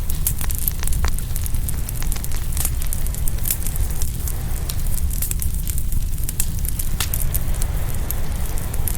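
Open wood fire crackling and popping, with many sharp snaps scattered irregularly over a steady low rumble.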